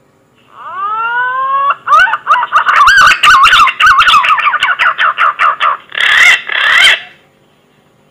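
Green pigeon (punai) song played as a hunting lure call: a rising whistle, then a quick run of warbling whistled notes, ending in two harsher, noisier notes.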